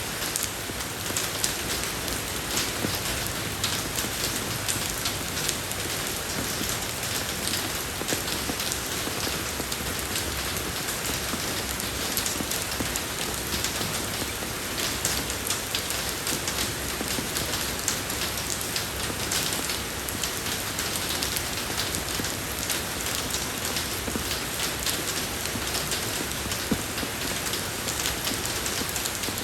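Steady rain falling on a road surface: a dense, even patter of drops with many fine ticks.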